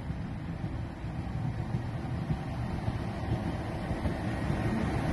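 Diesel multiple unit passenger train drawing into the station platform, a low rumble that grows steadily louder as it comes alongside.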